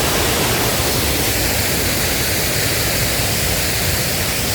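Steady roar of a waterfall in heavy rain: an even rushing noise with no breaks.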